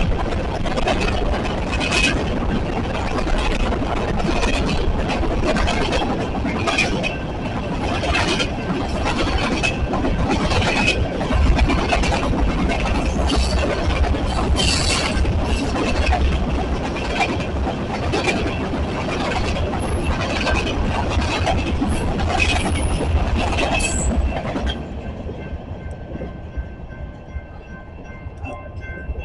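A train's cars rolling past, with a dense, steady rumble and many quick clicks of wheels over the rails, plus a few brief high wheel squeals. Near the end the noise drops off, leaving a few steady high tones.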